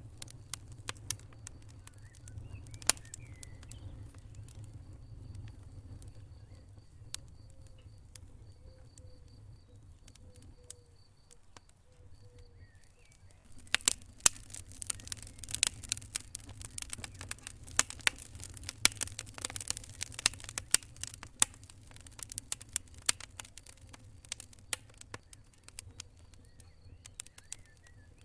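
Wood fire burning in a fireplace, crackling and popping: scattered sharp pops at first, then a dense run of crackling from about halfway that thins out near the end, over a low steady rumble of the flames.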